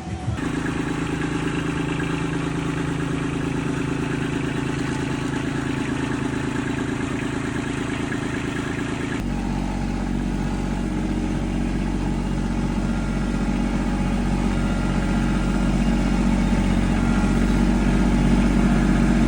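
Kubota LX2610 tractor's diesel engine running steadily. Its tone shifts abruptly about nine seconds in, and it grows slightly louder toward the end.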